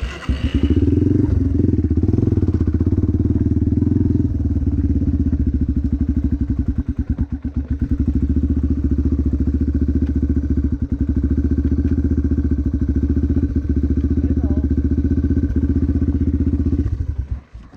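Motocross bike engine starting suddenly and running steadily at one speed, then cutting off near the end.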